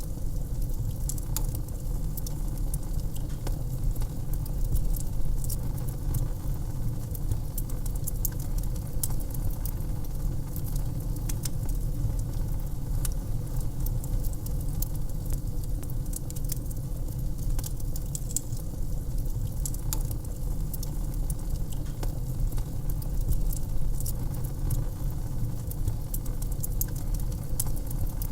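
Wood fire in a fireplace crackling: irregular sharp pops and snaps scattered throughout, over a steady low rumble.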